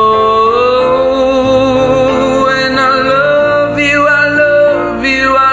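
Live singing with instrumental backing: long held vocal notes that glide up in pitch, with new sung phrases entering after about two seconds.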